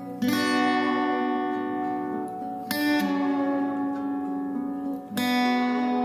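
Guitar instrumental with no vocals: three chords struck about two and a half seconds apart, each left to ring.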